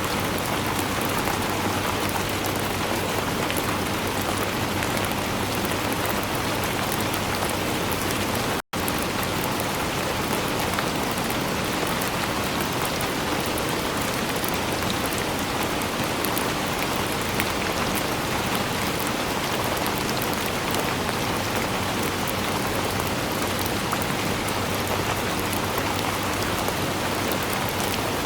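Steady rainfall, an even hiss of falling rain with fine drop patter throughout. It cuts out to silence for an instant about nine seconds in, then resumes unchanged.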